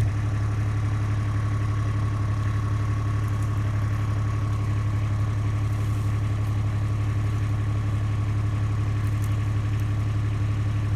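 Steady, unchanging low mechanical hum, like an engine running at idle, with a faint steady high tone over it.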